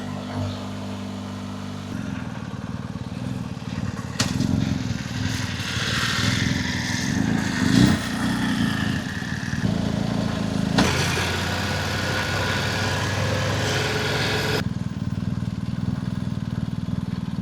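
BMW adventure motorcycle engine running steadily at low revs. A hiss over it cuts off suddenly near the end, and there are a couple of sharp clicks.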